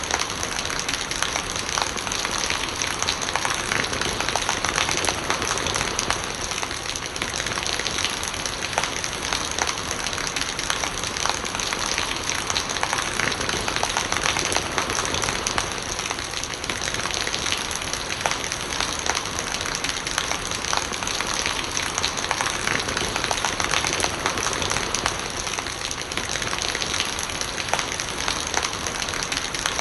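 Steady rain falling, with many sharp drop impacts and rainwater gurgling.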